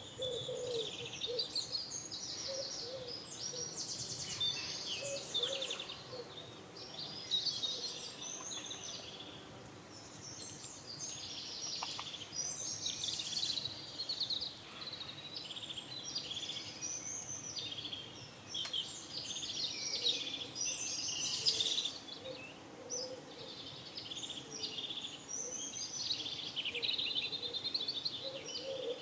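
Several small songbirds chirping and trilling over one another in a dense morning chorus, with a pigeon cooing low at the start and faintly now and then.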